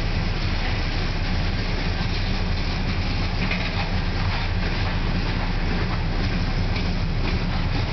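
Covered hopper cars of a freight train rolling past: a steady rumble of steel wheels on rail, with faint clicks of the wheels running through the second half.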